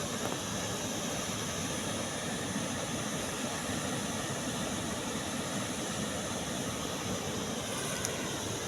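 Steady rush of a waterfall and the fast river below it, an even roar of water with no letup.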